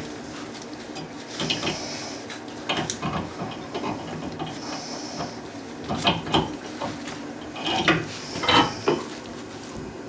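Irregular knocks, clatter and scraping as toilet parts are handled and the toilet is set back down over the flange, with a few short hisses.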